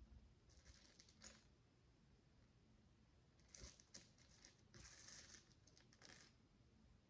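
Faint rustling and light clicking of miniature plastic building bricks being handled, in a few short spells.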